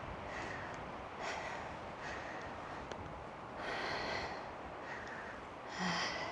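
A hiker breathing hard while climbing a steep trail, a breath about every second, with a louder one near the end, over steady wind noise on the microphone.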